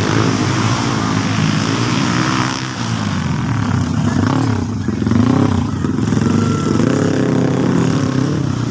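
Motocross dirt bike engines revving, rising and falling in pitch as the riders open and close the throttle.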